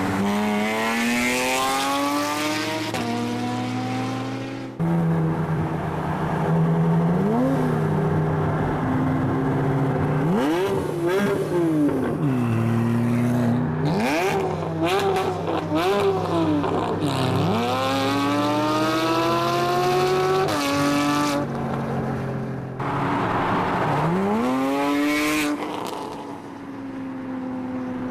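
Porsche 981's 3.4-litre flat-six through an Armytrix valved exhaust, revving and accelerating hard. Its pitch climbs steeply again and again, with a run of quick throttle blips in the middle. The sound breaks off abruptly a few times.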